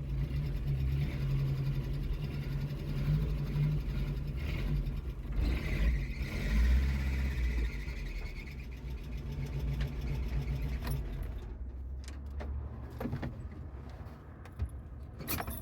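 A vehicle engine running steadily as it drives, with a few short knocks in the last few seconds as the sound tails off.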